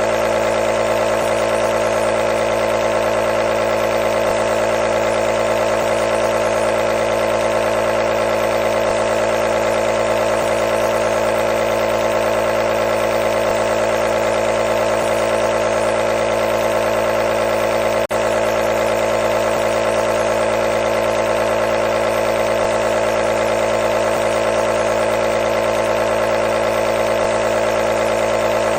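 Nebulizer compressor running: a steady, unchanging motor hum with a buzzing pitch over a hiss of air, with one brief click about two-thirds of the way through.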